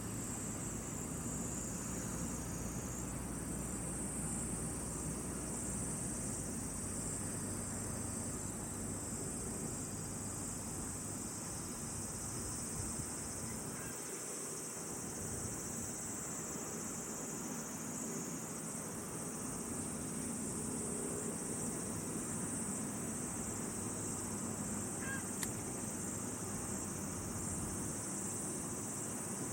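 Steady, high-pitched chorus of insects, such as crickets, shrilling without a break.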